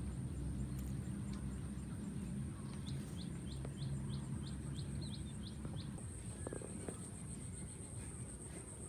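Outdoor ambience with a steady low rumble and a steady high-pitched drone; about three seconds in, a bird gives a quick run of about ten short rising chirps, roughly three a second.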